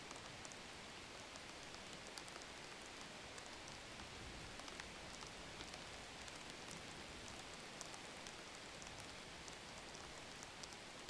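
Faint, steady sizzling of minced meat frying in tomato-onion masala in a nonstick pan, a hiss with fine crackles throughout.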